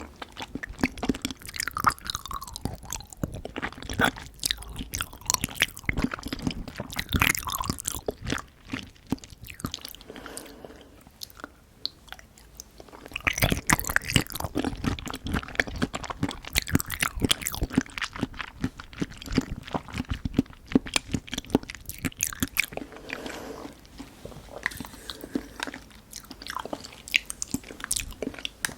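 Close-miked eating sounds of Nanaco pudding: wet chewing, crackly crunches and mouth clicks in bursts, with a quieter spell about ten seconds in.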